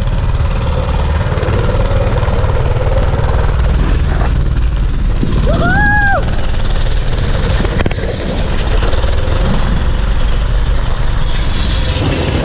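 Mini bike's small engine running under way during a ride, with heavy rumble and wind on the microphone. A brief high pitched tone rises and falls about six seconds in.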